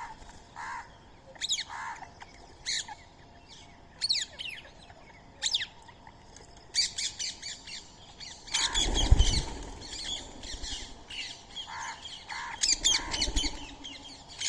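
Indian ringneck parakeets calling with short, shrill squawks, scattered at first and then several birds overlapping in a busy chorus. A loud low rumble breaks in about nine seconds in and briefly again near the end.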